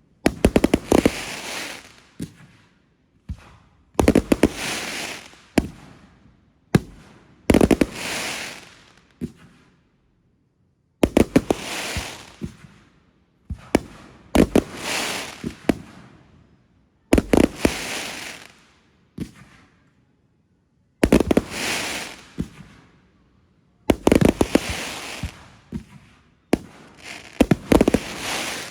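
Fireworks going off one after another, about ten in all, every two to four seconds. Each is a sharp bang followed by a crackling hiss that fades over a second or two.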